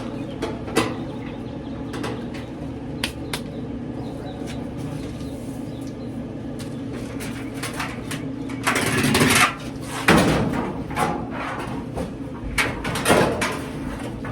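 Clicks, knocks and a couple of louder scraping noises, about nine and ten seconds in, from dryer parts being handled during a belt repair, over a steady low hum.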